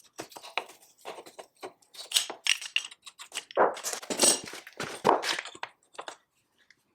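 Metal parts of an old cast-iron power hammer knocking, clinking and scraping against each other as it is taken apart by hand, in an irregular run of sharp knocks, loudest near the middle.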